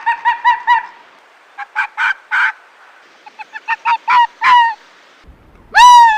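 A bird calling: runs of short, rapid pitched calls, then one longer and louder call that rises in pitch and levels off near the end.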